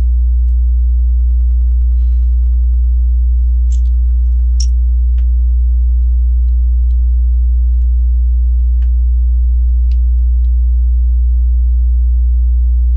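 Loud, steady electrical mains hum with a stack of overtones, the kind a ground loop or interference puts into a recording. Over it come a few faint, sharp clicks of plastic Lego pieces being handled and pressed together.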